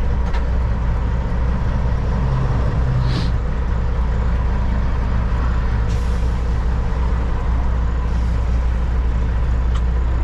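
Semi truck's diesel engine running with a steady low drone, heard from inside the cab, with a short air-brake hiss about three seconds in and another about six seconds in.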